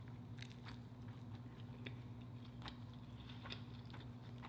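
Soft mouth sounds of someone biting into and chewing a soft pork taco, with faint scattered wet clicks from the mouth.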